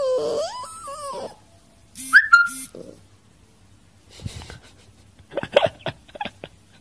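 A husky-type puppy whining in a wavering, gliding pitch for about the first second, then a short high squeal about two seconds in, and a few brief whimpers later on.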